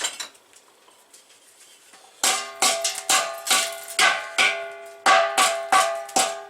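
Quiet for about two seconds, then a steady series of hammer blows on a rusty steel truck air tank, about two to three a second. Each blow leaves the tank ringing at the same few pitches.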